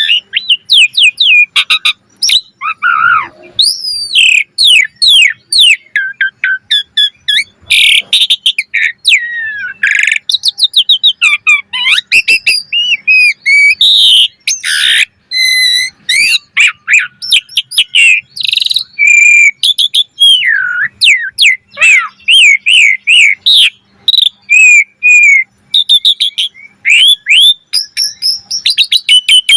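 Asian pied starling (jalak suren) singing at full tilt: a loud, continuous stream of varied whistles, slurred notes and rapid chirping phrases with only brief pauses.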